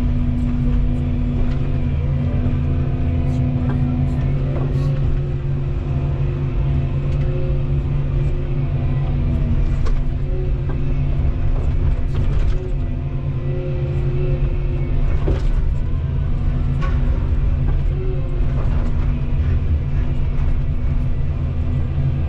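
Volvo 235EL excavator's diesel engine and hydraulics running steadily under load, with a low rumble and a whine whose pitch shifts slightly as the machine works. Scattered knocks and clicks from the attachment and machine come through it.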